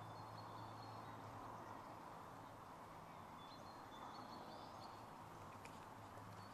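Faint outdoor background with small birds calling in the distance: short, thin, high notes repeated, one of them rising in pitch, over a steady low hiss and hum.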